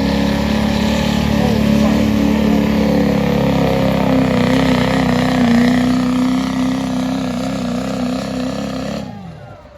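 Pulling truck's engine held at high, steady revs under load, ending suddenly about nine seconds in.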